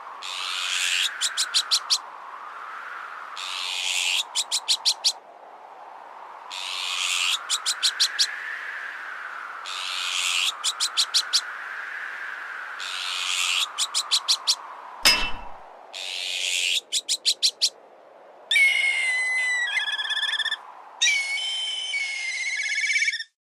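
Azure-winged magpie harsh alarm calls repeating every two to three seconds, each a rasping swell followed by a quick run of chattering notes, over a wind whistle that rises and falls. A single sharp metal clang comes about 15 seconds in, and near the end black kite whistled calls warble.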